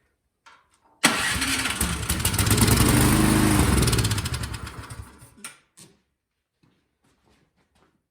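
Craftsman snowblower engine firing on a shot of starting fluid sprayed into the carburetor intake: it starts abruptly, runs for about four seconds, then fades and dies. This is the sign of a fuel problem, which the mechanic takes for carburetor jets clogged by old gas.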